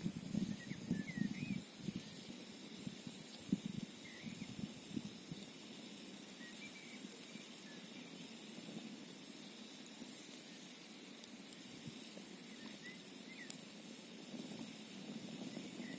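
Campfire crackling, with a few sharp pops and a steady hiss of flowing water underneath. A low, gusty rumble fills the first few seconds and then dies down. Short, faint squeaky chirps come and go.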